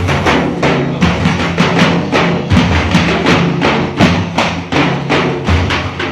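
Frame drums (daff) of a religious praise ensemble beating a steady rhythm, about four strokes a second, with no singing.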